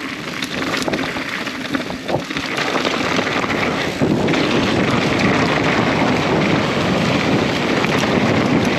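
Wind rushing over a mountain biker's GoPro microphone on a trail descent, a dense noise that gets louder about four seconds in.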